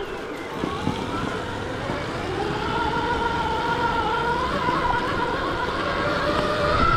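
Stark Varg EX electric dirt bike's motor whining, with its pitch drifting up and down with the throttle and climbing near the end, over a rough, noisy rumble.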